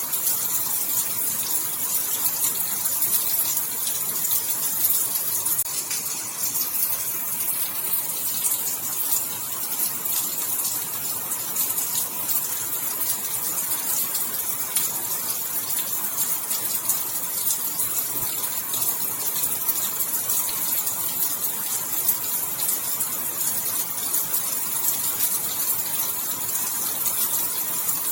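Steady heavy rain falling, a dense even hiss with fine crackling patter.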